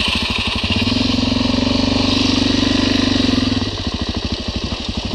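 Motorcycle engine running while riding, with a steady rapid pulse; it gets louder about a second in and drops back after about three and a half seconds, as if the throttle is opened and then eased off.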